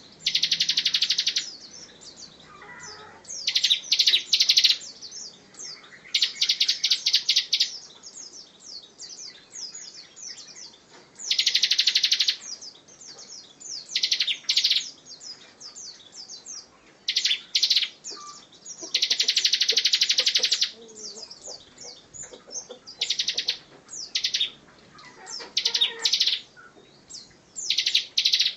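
Bar-winged prinia (Javan ciblek) calling: bouts of rapid, high, buzzy chipping about a second long, repeated every few seconds, with softer thin high notes between the bouts.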